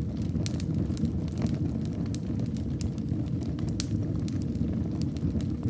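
Wood fire burning in a fireplace: a steady low rumble of flames with frequent sharp crackles and pops at irregular moments.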